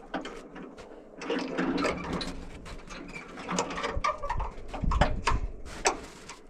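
Hood of a 1981 Peterbilt 359 being unlatched and opened: an irregular run of clunks, clicks and scrapes, with the sharpest knocks around four to six seconds in.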